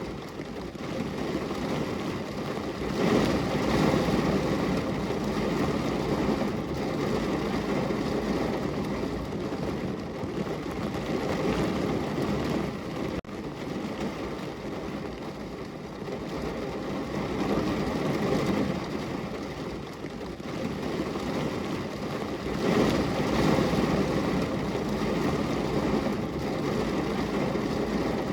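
Heavy rain falling as a steady, dense rush of noise that swells louder twice.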